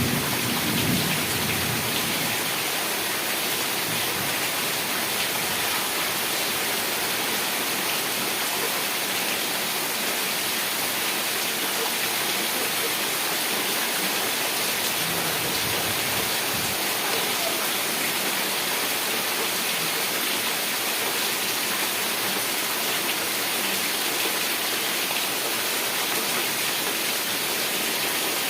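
Heavy rain falling steadily. In the first second or two, a low thunder rumble dies away.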